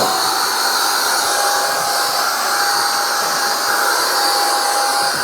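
Veeape 3-in-1 battery-powered blower running at full speed, a steady rush of air with a steady high motor whine, blowing debris clean after a fire.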